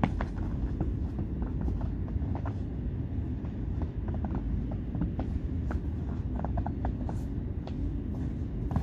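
Snowstorm wind buffeting the microphone in a steady low rumble, with scattered light ticks over it.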